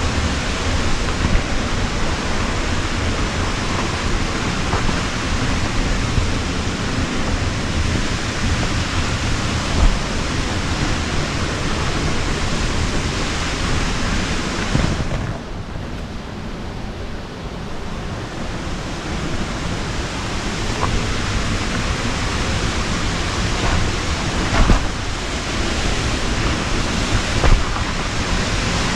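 Waterfall rushing in a steady roar of white water. Around the middle it briefly turns duller and quieter, and there are a few faint knocks.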